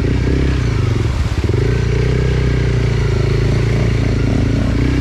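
Enduro dirt bike engine running under load on a rough trail, its revs dipping briefly about a second in, then picking up again, with some clatter.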